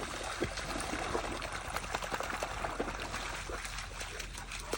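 Shallow water splashing and trickling, a steady wash of small splashes and drips.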